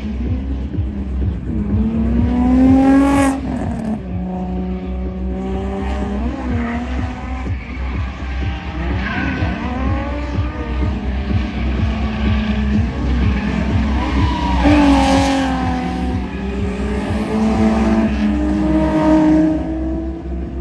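Car engine revving hard and falling back again and again, with bursts of tire squeal, as a car drifts on a track.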